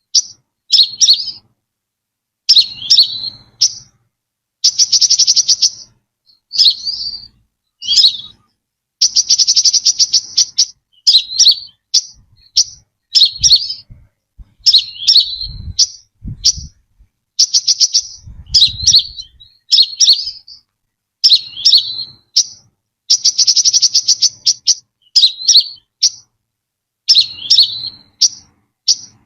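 Brown-throated sunbird calling: short, high chirping notes repeated about once a second, broken several times by a fast trill lasting about a second.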